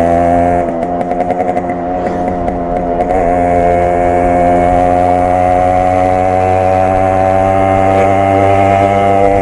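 Yamaha RX 100's single-cylinder two-stroke engine running under way, heard through its exhaust. The note turns uneven and a little quieter for a couple of seconds about half a second in, then holds a steady cruising note.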